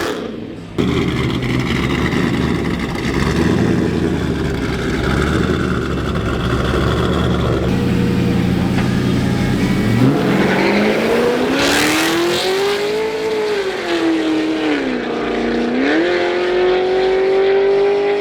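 Truck engine at hard throttle during a drag strip pass: a rough, loud engine drone that kicks in suddenly about a second in. About ten seconds in, it gives way to a clear engine note that climbs steeply in pitch, then dips and climbs again.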